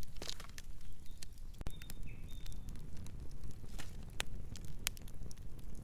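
Wood fire crackling, with irregular sharp pops and snaps over a steady low rumble. A faint short bird chirp comes about two seconds in.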